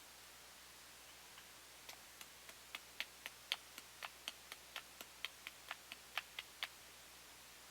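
A quick series of about twenty short, sharp clicks, roughly four a second, starting about two seconds in and stopping a second before the end, over a faint steady hiss.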